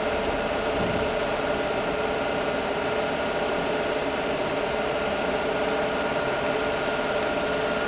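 Peugeot 408's EW10 four-cylinder petrol engine idling steadily with a constant hum, freshly restarted with the oil filler cap in place.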